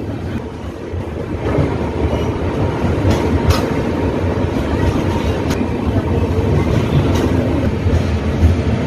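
Express passenger train running, heard from aboard: a steady rumble of the moving coaches that grows louder about a second and a half in, with a few sharp clicks of the wheels over the rails.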